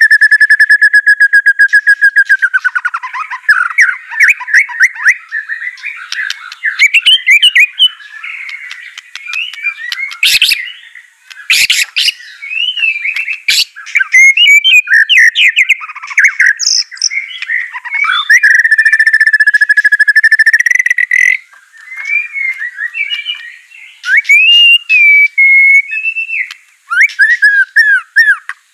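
White-rumped shama (murai batu) singing a loud, varied song: a long rapid trill at the start and another about two-thirds through, with quick whistled phrases and sharp clicks between them.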